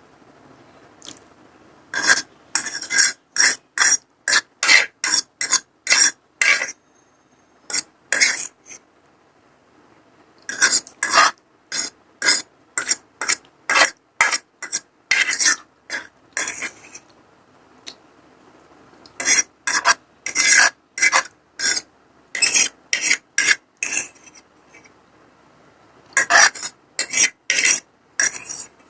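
Close-miked eating of masala Maggi noodles: quick sharp bursts, about three a second, in runs of several seconds broken by short pauses.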